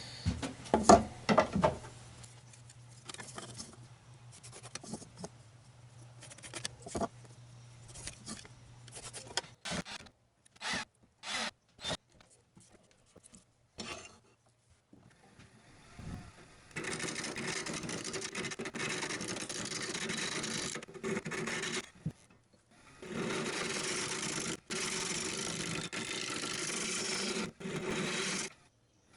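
Wood lathe running while a tool rubs against the spinning wooden blank, in long stretches broken by a short gap; before that, scattered clicks and knocks.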